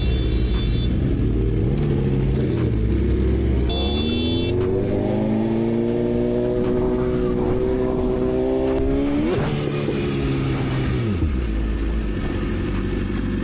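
A motor vehicle's engine running, then revving up with its pitch climbing steadily from about four seconds in, a sharp rev at about nine seconds, and dropping away about two seconds later. Two short high beeps are heard, one at the start and one about four seconds in.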